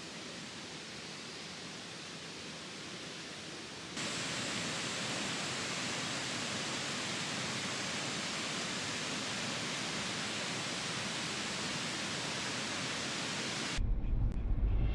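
Steady rushing outdoor noise with no distinct events, stepping up in level about four seconds in. Music starts near the end.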